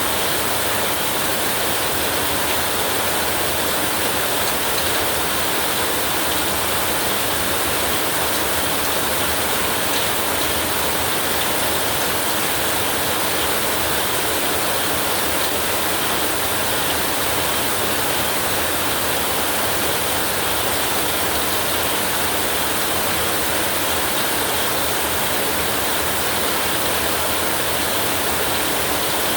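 Heavy rain falling steadily, an even, unbroken hiss with no thunder heard.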